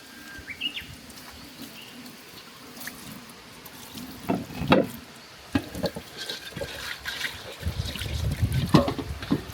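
Water pouring and trickling, louder in the last couple of seconds, with a few knocks of handling.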